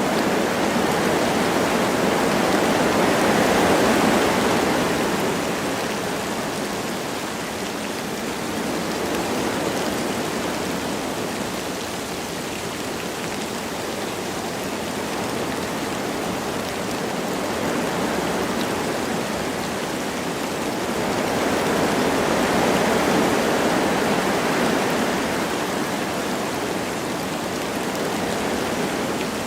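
Wind blowing through forest trees with light rain falling: a steady rushing noise that swells in two gusts, one a few seconds in and one about two-thirds of the way through.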